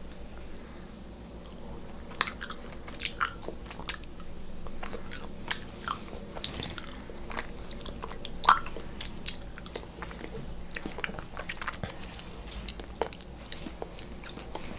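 Close-up eating sounds: a person biting into and chewing a small round piece of food, with many irregular sharp clicks and smacks from the mouth. A faint steady low hum runs underneath.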